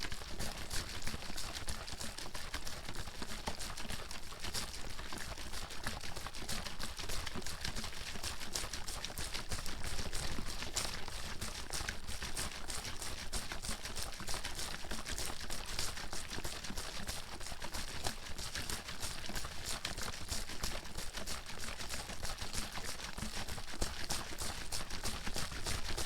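Water sloshing and slapping inside a bottle that is being shaken rapidly and without a break, a dense, even run of strokes.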